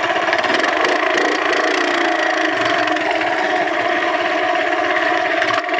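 Minibike engine running at steady high revs during a timed lap, with a dense rushing noise over it; it dips briefly near the end.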